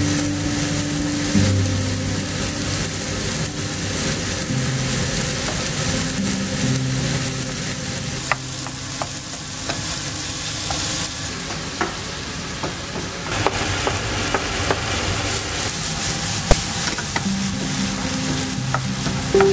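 Diced onion, tomato and ham sizzling steadily as they fry in a non-stick pan, stirred with a wooden spatula. From about eight seconds in, the spatula gives scattered sharp clicks and taps against the pan.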